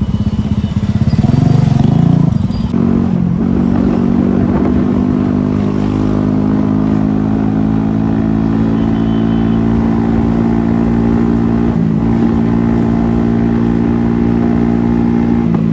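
Scooter engine running while being ridden, louder and changing pitch for the first two or three seconds, then holding an even drone at a steady speed.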